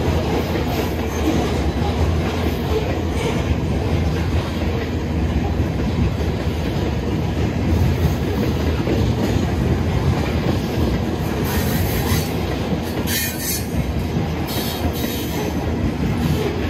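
Freight cars of a Canadian Pacific manifest train rolling past with a steady rumble and clatter of wheels on rail. Brief high-pitched wheel squeals come several times in the second half.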